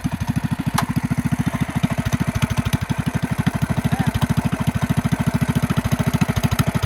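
Mini bike's Predator 212 single-cylinder four-stroke engine idling steadily, a rapid even chug with no revving.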